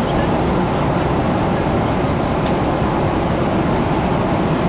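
Steady cabin noise of a Boeing 777-200ER in flight: engine and airflow noise heard from inside the passenger cabin, an even low rumble that holds level.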